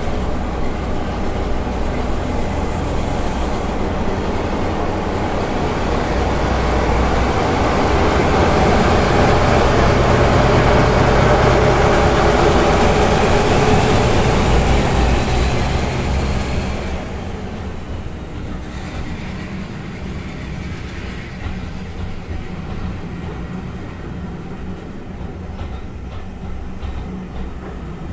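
A train passing close by on a heritage line, growing louder to a peak about halfway through, then dropping off sharply and running on more quietly as it moves away.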